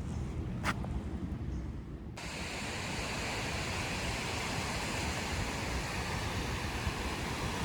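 Low wind rumble on the microphone, with one short tick under a second in. About two seconds in, a steady broad hiss of light rain and choppy lake water starts suddenly.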